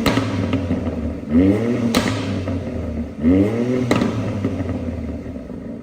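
BMW X4 M's twin-turbo straight-six with a tuned mid-pipe and ASR exhaust, blipped twice. Each rev rises quickly and is followed by a sharp crack from the exhaust as it falls back. The sound dies away near the end.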